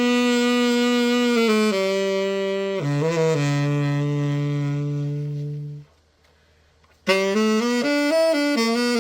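Novasax TX-502 vintage tenor saxophone played solo after a full overhaul: a few held notes stepping down to a long low note that stops about six seconds in, then after a short pause a new phrase starts.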